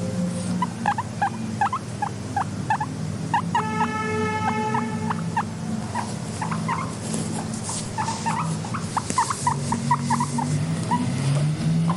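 Guinea pigs squeaking in quick runs of short, high notes, with one longer held squeal about four seconds in, over a steady low hum.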